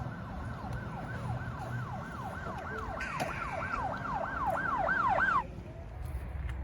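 Siren in a fast yelp, its pitch sweeping up and down again and again, quickening and getting louder until it cuts off abruptly near the end, over a low rumble.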